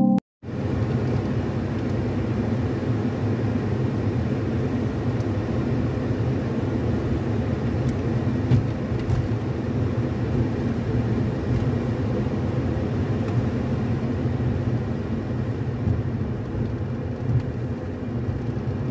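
Steady low rumble of a car driving, heard from inside the cabin, with a couple of small knocks about 8 and 17 seconds in.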